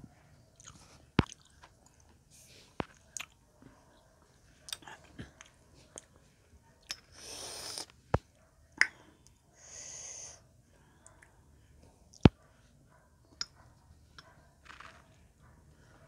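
Close-miked eating of dalandan: chewing and wet mouth smacks with a scatter of sharp clicks. Two longer hissing sounds come about halfway through and again a couple of seconds later.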